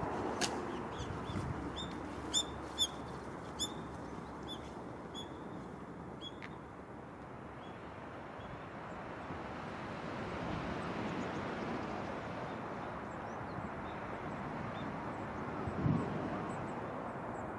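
Surf washing steadily on a sandy beach, swelling a little midway. Over it, a bird gives a quick series of short, high chirps through the first several seconds, with a few fainter chirps later.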